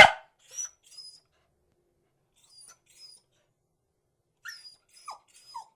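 A beagle gives one loud, sharp bark, followed by a scatter of faint, short, high whines, several of them falling in pitch near the end.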